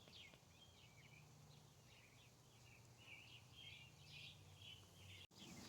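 Faint, high chirping of nestling birds, a quick run of short calls, begging while a parent feeds them.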